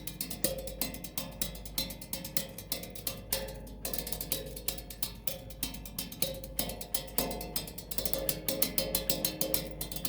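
Improvised percussion: quick, uneven knocks and taps, several a second, some ringing briefly with a clear pitch, growing denser near the end.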